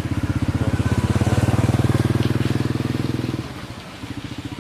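A small engine running with a fast, even putter. It drops in level about three and a half seconds in.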